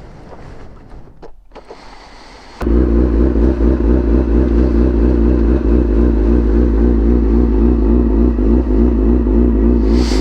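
Faint rustling, then about two and a half seconds in a sharp click and a sport motorcycle's engine comes in suddenly and runs at a steady idle, loud and evenly pulsing.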